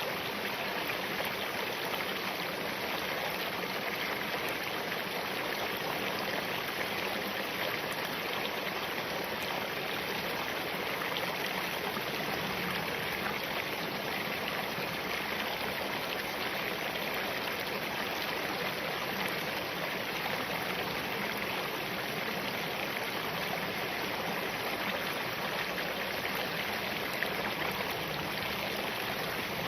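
Spring-fed mountain stream flowing over and between rocks, a steady, unbroken rush of running water.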